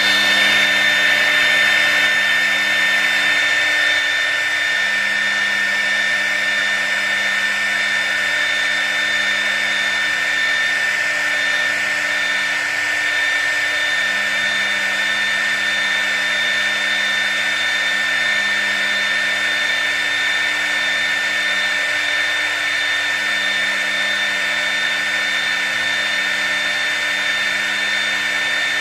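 CNC router's spindle running with a steady high whine as it engraves MDF, with a lower hum underneath that drops out briefly three times.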